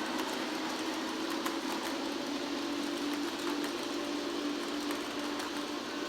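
Model train running on layout track: a steady electric-motor hum with wheel noise and faint scattered clicks from the rail.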